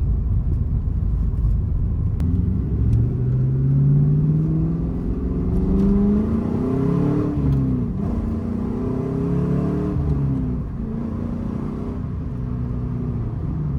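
2000 Pontiac Firebird Trans Am WS6's LS1 V8 accelerating hard through a manual gearbox. The revs climb for several seconds, drop briefly at a gearshift about halfway through, climb again, then settle to a steadier run near the end.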